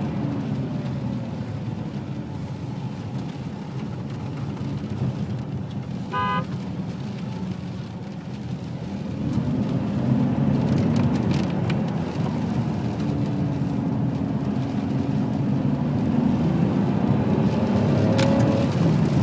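Ferrari 599 GTB Fiorano's V12 engine driving on the road: revs falling at first, then pulling harder from about nine seconds in, with revs rising again near the end. A short beep sounds about six seconds in.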